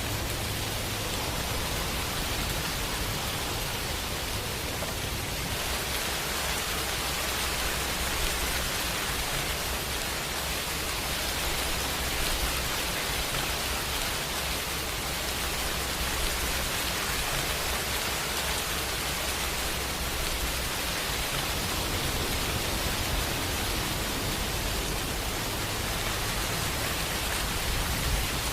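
Steady rain falling, an even dense hiss with a low rumble underneath.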